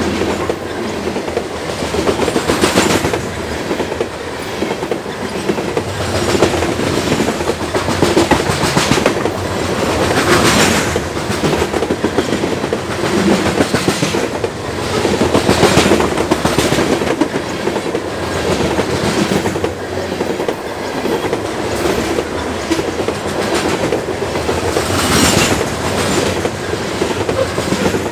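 Railroad train rolling steadily past, its wheels clacking over the rail joints in a continuous loud rumble, with louder swells every few seconds.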